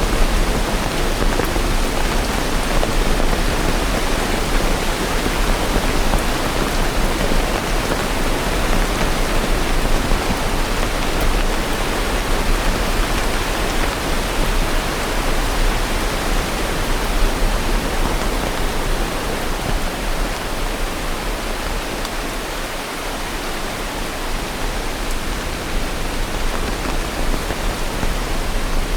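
Steady rain falling in an even, dense hiss, dipping slightly in level a little past two-thirds of the way through.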